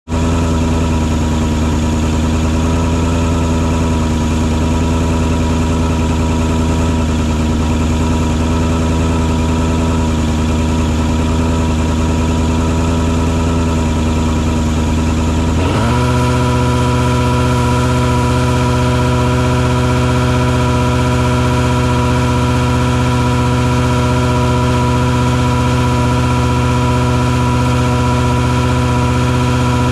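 Engine of a mosquito-fogging truck rig running steadily. About halfway through its speed steps up suddenly, and it holds at the higher pitch.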